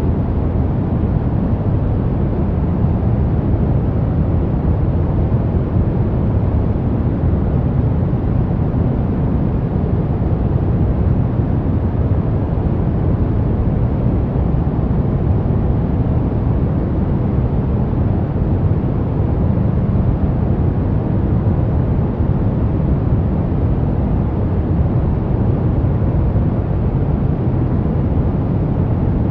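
Pink noise: a steady, unchanging rushing hiss, heaviest in the low end and thinning out toward the top.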